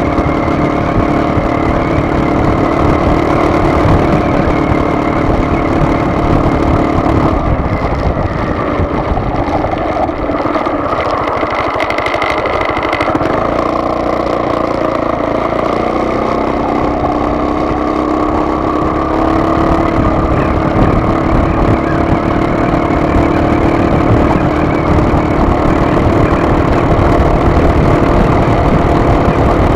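A vehicle's engine and road noise while driving: a steady rumble with engine tones that drop away about seven seconds in and come back a few seconds later, slowly rising in pitch.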